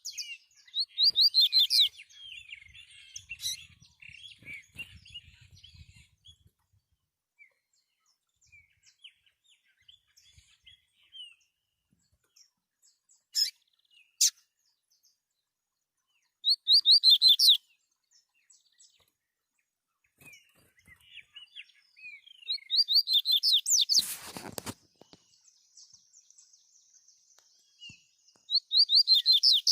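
Double-collared seedeaters (coleiros) singing: four phrases of fast, rapidly repeated high whistled notes, with softer chirps between them. A sharp knock comes about three-quarters of the way through.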